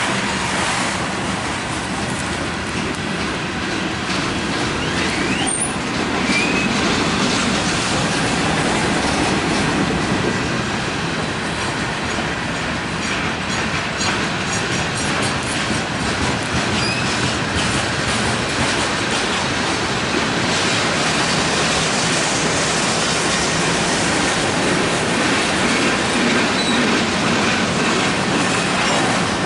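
Freight train of tank cars, hoppers and boxcars rolling past close by, a steady rumble with the clickety-clack of wheels over rail joints and a couple of short wheel squeals.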